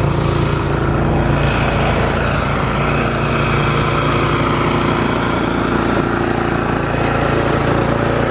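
Gasoline snowblower engine running steadily at a constant speed.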